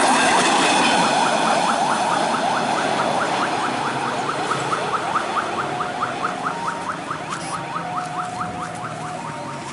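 Railway level-crossing alarm sounding a fast, regular run of rising chirps, about five a second, growing fainter, over the rumbling noise of a train. A steady tone joins in during the second half.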